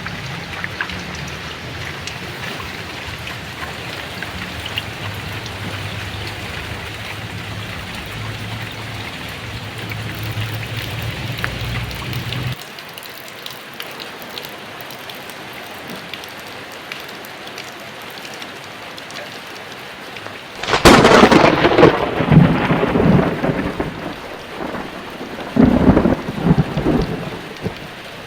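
Heavy rain falling steadily with thunder. A low rolling rumble stops abruptly a little under halfway through. About three quarters of the way in a loud, sharp thunderclap cracks and rumbles on, and a second loud peal follows near the end.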